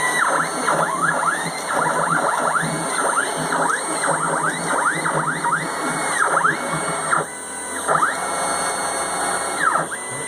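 Stepper motors of a CNC machine whining as its three axes move together, the pitch sweeping up and down with each short move as the motors speed up and slow down, several sweeps a second with a few brief steady tones.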